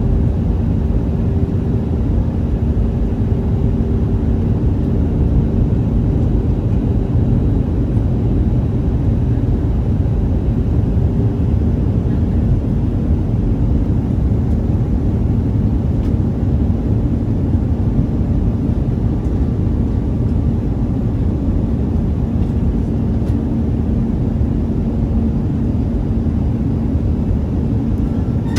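Airbus A319 jet airliner noise: a steady, loud drone of engines and airflow with two faint held hums, unchanging throughout.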